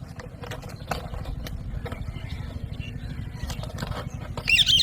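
Alexandrine parakeet giving one loud, high, shrill call about four and a half seconds in, over a steady low rumble and scattered light clicks.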